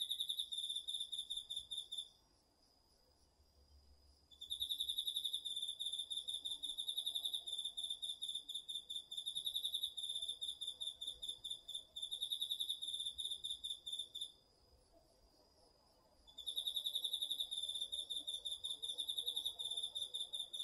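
Autumn garden insects singing: one insect gives a loud, rapidly pulsing high trill in long bouts. It breaks off about two seconds in, resumes for about ten seconds, pauses again, and starts once more near the end. A fainter, steady, even higher tone from another insect runs underneath.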